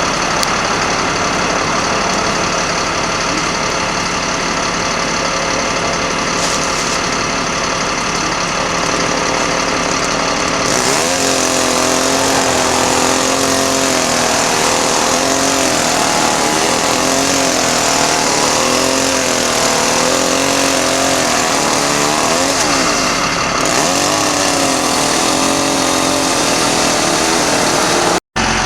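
Cat diesel engine of a 1991 GMC Topkick bucket truck running steadily. About ten seconds in, a wavering whine joins it and keeps rising and falling in pitch.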